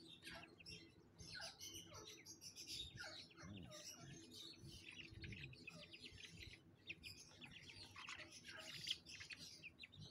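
Birds chirping, many short, high, overlapping chirps and a few falling calls, faint throughout.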